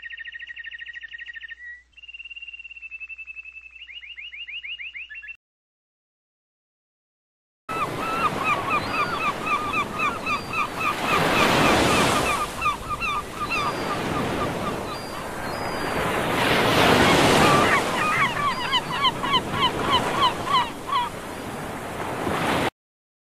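Gulls calling in rapid runs of short calls over breaking surf, the wash of the waves swelling loudly twice. It is preceded by about five seconds of high warbling calls and a short silence.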